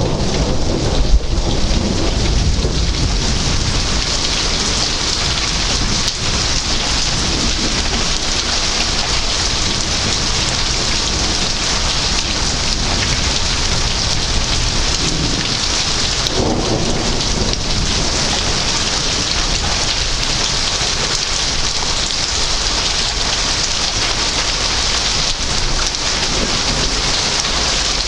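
Heavy thunderstorm: rain pouring steadily, with thunder rumbling, loudest in the first couple of seconds.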